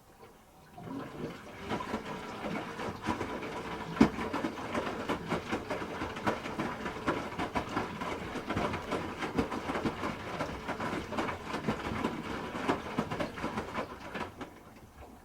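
Hoover H-Wash 300 Plus front-loading washing machine turning its drum during a rinse, wet laundry tumbling with irregular knocks and sloshing water. It starts about a second in and stops near the end, as the drum pauses.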